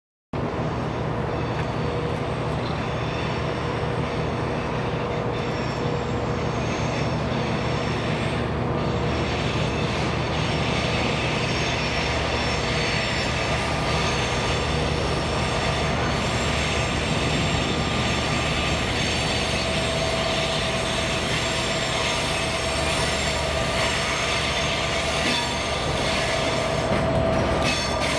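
Diesel-hauled train moving through a station, the locomotive's engine running steadily under a continuous low hum, with thin steady squealing tones from the wheels on the rails.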